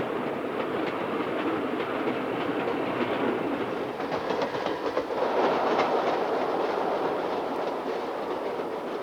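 A train running along the track, its wheels clattering over the rail joints, growing louder about five seconds in and easing off near the end.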